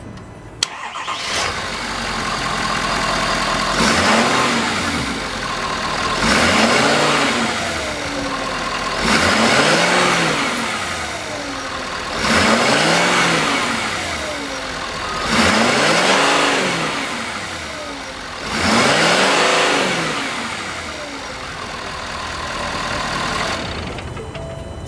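2019 Ford F-350 pickup engine starting about half a second in, then idling and being revved about six times, each rev rising in pitch and falling back to idle, before settling at idle near the end.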